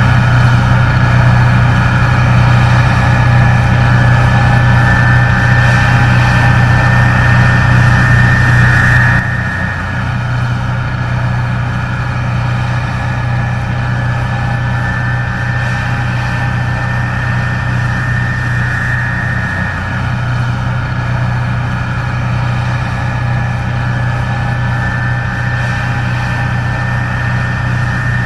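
Case IH 1660 Axial-Flow combine running steadily while harvesting corn: a diesel engine hum with a higher whine over it. The whole sound drops in loudness abruptly about nine seconds in, then carries on steady.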